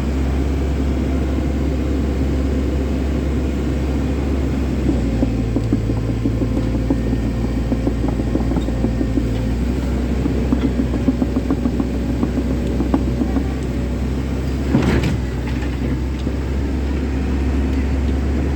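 Komatsu 130-class excavator engine running steadily with a low drone. A rapid clatter of small knocks runs through the middle, and a single sharper knock comes later.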